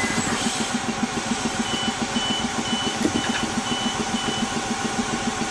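Diesel train engine idling with a fast, even throb. In the middle, a high warning beep sounds six times, about two a second.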